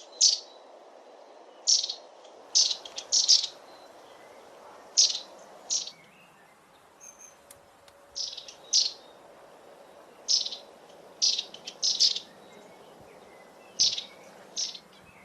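Long-tailed tit calling: short, high, thin notes, singly and in quick pairs and triplets, repeated every second or two over a faint steady background rush.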